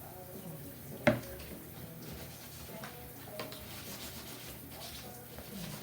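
Rubbing and handling noise with one sharp, loud knock about a second in and a few fainter clicks after it.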